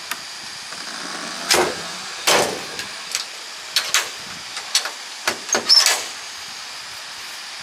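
A string of about ten irregular knocks and clunks, the loudest around two seconds in, as objects are set down and handled.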